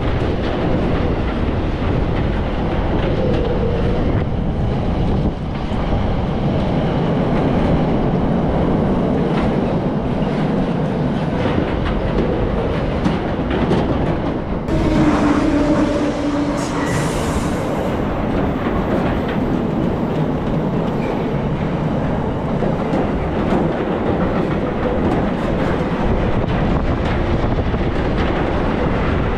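Freight train of empty double-deck car-carrier wagons rolling past at close range: a steady loud rumble with the clickety-clack of wheels on the rails. There is a short whine about halfway through.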